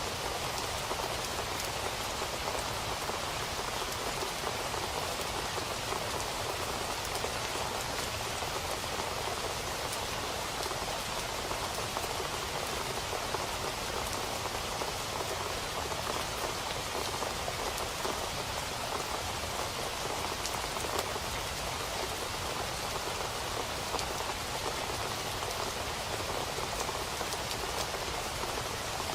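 Steady rain falling on a surface, an even hiss with many small drop taps throughout.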